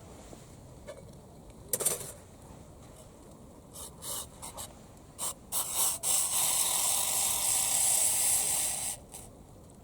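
A hiss: several short hisses, then a steady hiss for about three seconds that cuts off sharply.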